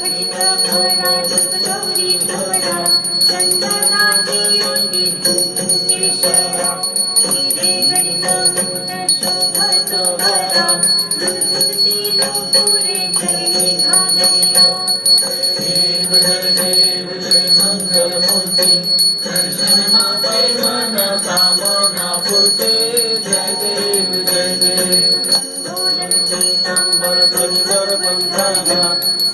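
Ganpati aarti devotional music with a bell ringing steadily throughout.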